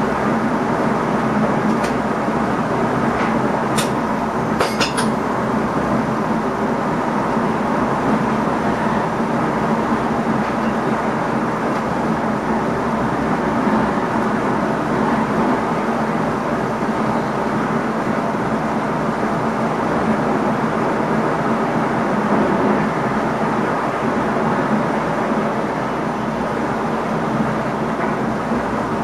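Running noise heard inside the driver's cab of an NS ICM (Koploper) electric train: a steady rumble with a low hum. A few sharp clicks come about two to five seconds in.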